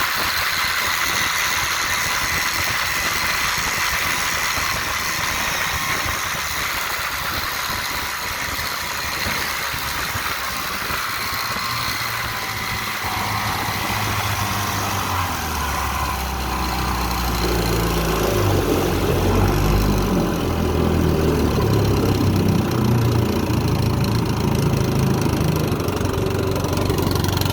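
1958 Johnson FD-12 18 hp two-cylinder two-stroke outboard motor running under way at steady speed, then throttled back about halfway through, its note dropping to a lower, rougher running.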